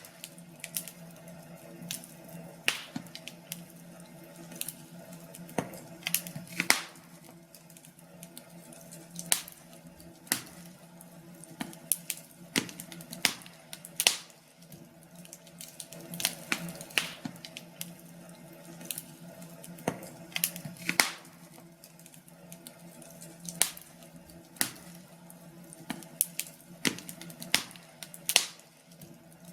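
Wood fire crackling in a fireplace: irregular sharp pops and snaps, a few each second with some louder ones, over a faint steady hum.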